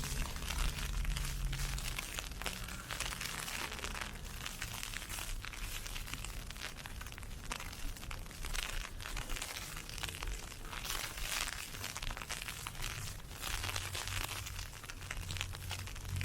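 Ice pellets pelting an umbrella in a dense, continuous crackle of tiny ticks. A low hum comes in briefly near the start and again near the end.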